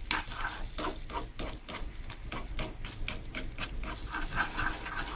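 Beaten duck eggs frying in butter and oil while a utensil stirs them in the pan, with quick scraping and tapping strokes against the pan as the eggs start to set into curds.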